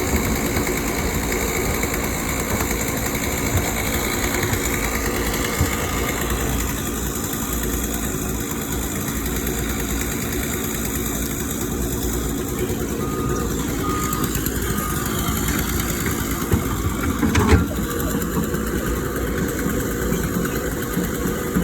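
Heavy construction machinery engine running steadily, with a sharp knock about three-quarters of the way through.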